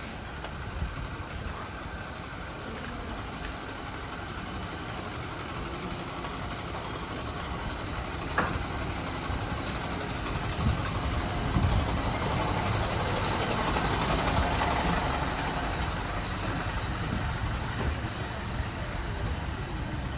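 Street noise with a motor vehicle running close by. Its low rumble grows louder toward the middle and then fades.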